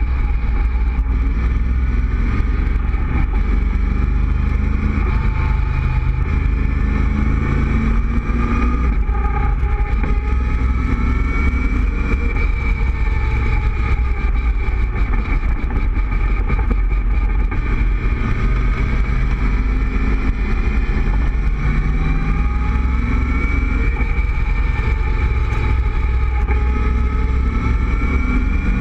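Cobra roadster's engine running at road speed, its note rising several times as the car pulls along, heard from the open cockpit with a steady low rumble of wind and road noise.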